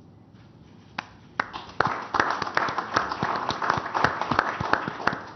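Applause: a few claps about a second in, swelling into steady clapping by a room of people and thinning a little near the end.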